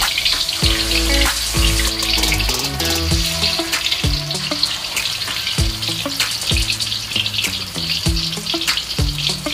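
Banana slices deep-frying in hot oil in a wok, a steady sizzle, under background music with a steady beat.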